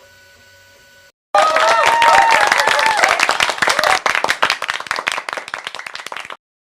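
Faint steady hum for about a second, then a crowd applauding and cheering starts abruptly, tapers slightly, and cuts off suddenly near the end.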